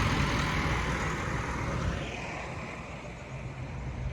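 Tractor engine running as it drives past, loudest for the first couple of seconds and then fading, over a steady low engine hum.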